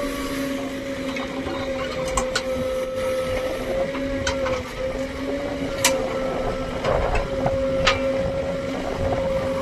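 JCB backhoe loader working: its diesel engine and hydraulics running with a steady whine over a low hum, and several sharp metallic clanks at irregular intervals.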